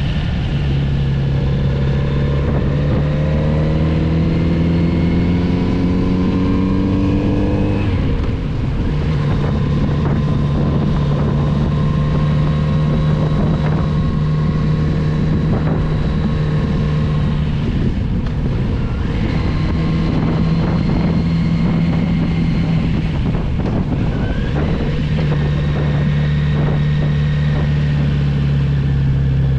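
Kawasaki Z900RS inline-four engine under way. It pulls up through the revs for several seconds, drops back sharply about eight seconds in, then runs at steadier revs with further throttle changes.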